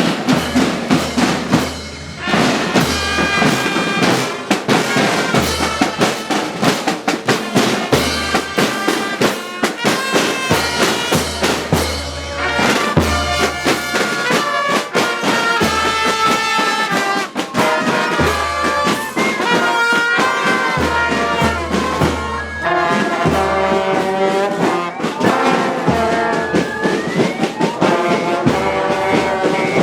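Brass band music: trumpets and trombones playing a tune over drums, with a rising glide near the end.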